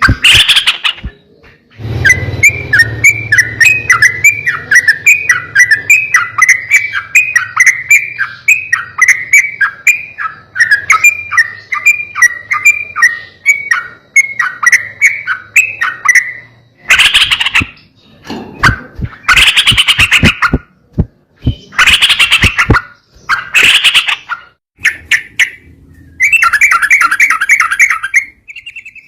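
Yellow-vented bulbul (trucukan) song played as a lure to prompt a caged bird to sing. From about two seconds in there is a long run of quick chattering notes, roughly four or five a second, with a low hum beneath it. This gives way to several loud separate calls and, near the end, a short buzzy trill.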